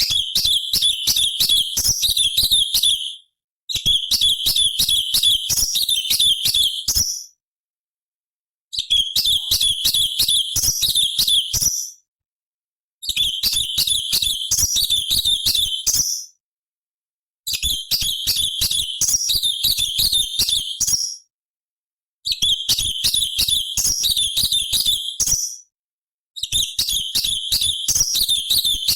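Orange-bellied leafbird (cucak cungkok) singing: seven phrases of rapid, high, chattering notes, each about three to four seconds long, separated by short silent gaps.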